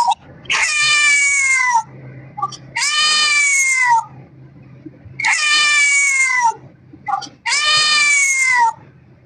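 A kitten meowing four times, each meow long and drawn out with the pitch falling at the end.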